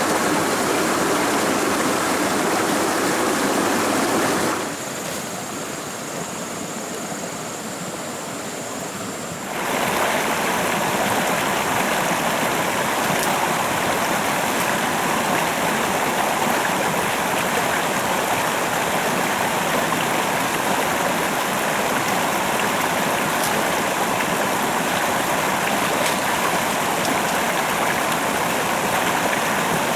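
Steady rush of running water from a forest stream. It drops quieter for about five seconds a few seconds in, then returns to full level.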